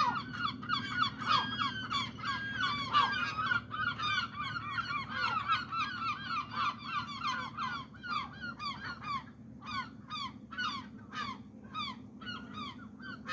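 Several gulls calling over each other in a dense run of short, repeated squawking calls, which thin out to sparser, sharper calls about halfway through.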